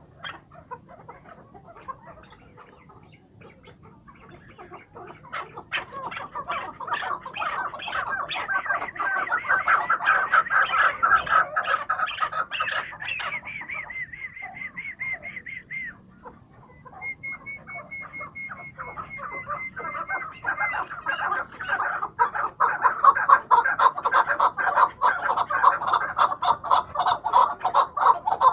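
Chukar partridges calling: a rapid, building series of chuck notes. Twice, about thirteen and seventeen seconds in, it gives way to a steadier, higher-pitched run of notes before the rapid chucking starts up again.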